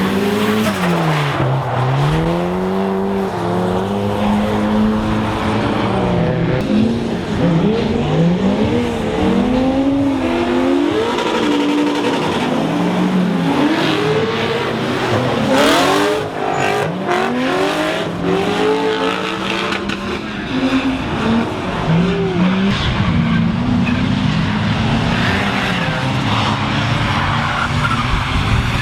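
Drift cars' engines revving hard and falling back again and again, several overlapping, with tyres skidding on a rain-wet track.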